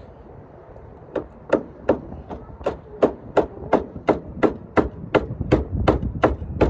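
Rapid, even knocking, nearly three sharp strikes a second, starting about a second in.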